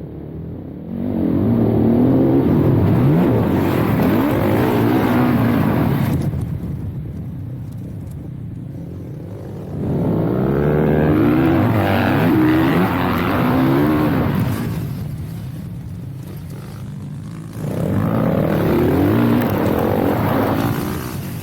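Dirt bike engine accelerating in three bursts of throttle, its pitch rising and falling within each, dropping back to a lower, quieter running sound between them.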